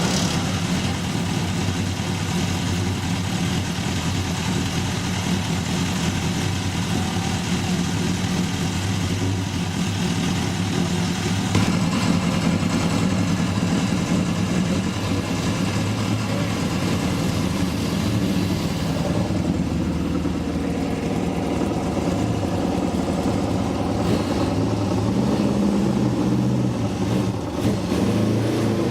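Engines of vintage race cars running steadily, with a low, even engine note throughout; the sound changes abruptly about twelve seconds in and again a little past the middle.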